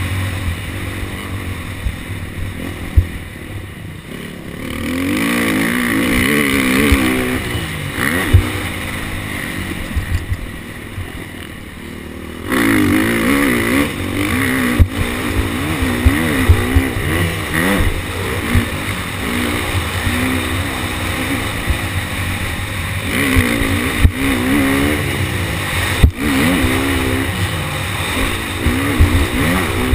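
KTM 250 SX-F four-stroke single-cylinder motocross engine revving up and down as the throttle is worked on and off around the track. The engine backs off twice, about three to five seconds in and again about nine to twelve seconds in, then comes back on hard. Sharp knocks are heard here and there from the bike over bumps.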